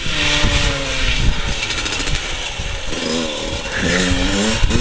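Dirt bike engine running, its pitch sinking slowly over the first couple of seconds, then revved in two short blips near the end.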